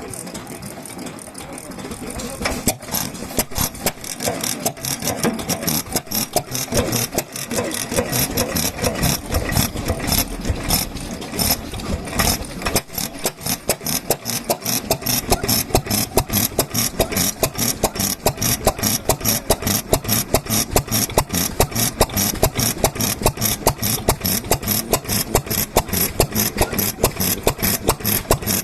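Hunter large water-cooled single-cylinder stationary oil engine starting: after a quiet rattle it begins firing a little over two seconds in, runs unevenly at first, then settles into a steady, even beat of firing strokes from about halfway on.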